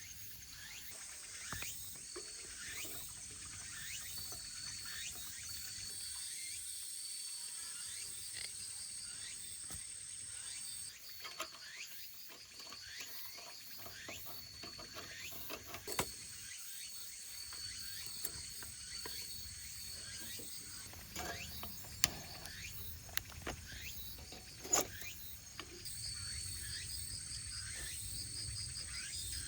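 Insects chirping steadily in high-pitched, pulsing tones, with a few sharp clicks from handling.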